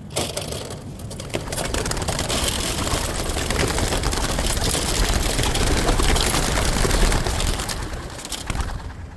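A flock of racing homing pigeons taking off together from their release crates, a dense clatter of wingbeats that swells for several seconds, then fades near the end.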